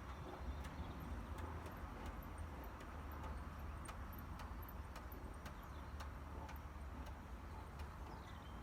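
O gauge model train running, its wheels clicking over the rail joints in an even rhythm of about two clicks a second over a low rumble.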